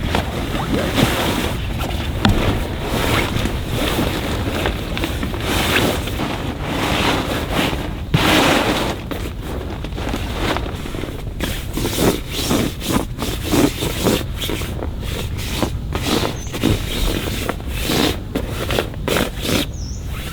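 Wind buffeting the microphone, with irregular scraping and rustling handling noises that come thick and fast in the second half.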